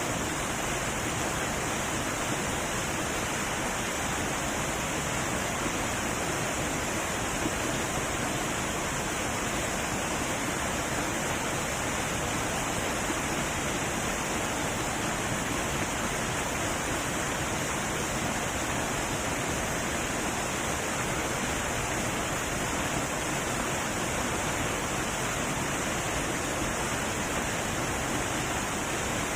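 Heavy waterfall: a steady, even rush of falling water with no breaks.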